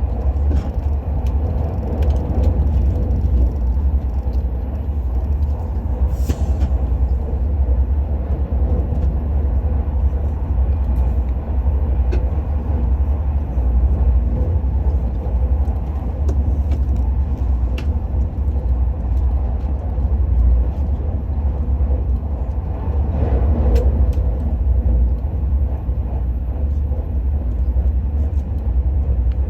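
Steady low rumble of the Al Boraq high-speed train running at speed, heard from inside the passenger car, with a few faint clicks.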